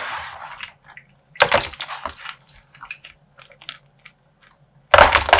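Plastic slime bag being squeezed and handled: irregular crinkling and crackling of plastic with wet squishing, in sharp bursts that are loudest about a second and a half in and again near the end.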